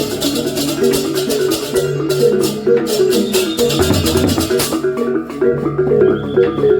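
Balinese gamelan playing: bronze metallophones in fast repeating note patterns over a low drum, with rapid clashing cymbal strokes.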